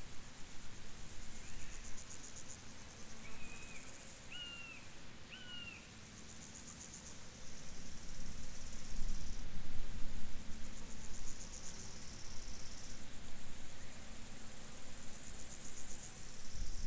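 Field insects trilling in repeated high, pulsed bouts of a second or two each, with a few short bird notes in the first six seconds. A low rumble sits underneath and grows louder about halfway through.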